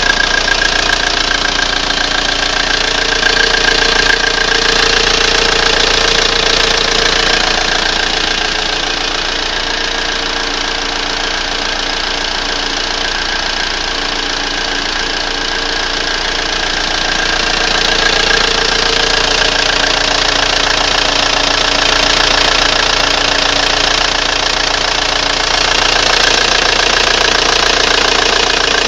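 Audi 80's 1.9 TDI four-cylinder turbodiesel engine, at 411,000 km, running steadily with a strange noise whose source the owner cannot place; a little quieter for several seconds in the middle.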